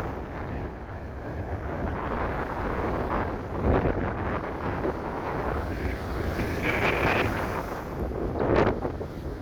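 Strong wind buffeting the microphone, a steady rumbling rush that swells in stronger gusts twice.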